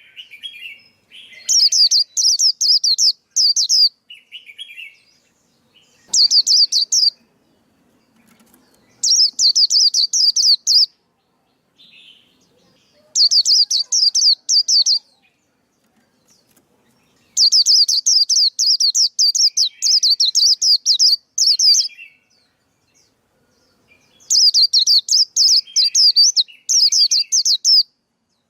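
Male white-eye singing: rapid, high, twittering trilled phrases about one to two seconds long, repeated after short pauses, with softer, lower chirps in between.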